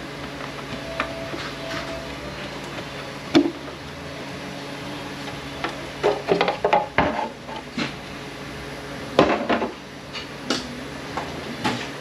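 Metal tools and transmission parts clanking and clinking on a workbench during disassembly. There is a single loud knock about three seconds in and bursts of clatter around six to eight seconds and again near nine seconds, over a steady low shop hum.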